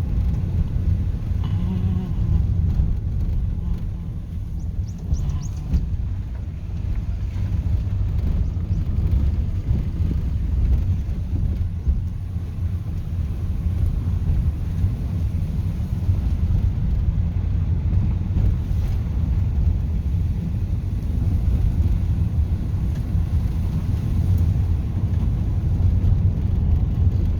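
A car driving, with steady low engine and road rumble.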